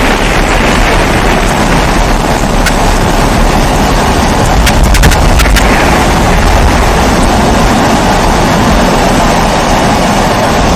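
Pressurised kerosene stove (babour) burner burning steadily with a loud, even rushing hum, with a few faint ticks about three seconds in and again around five seconds in.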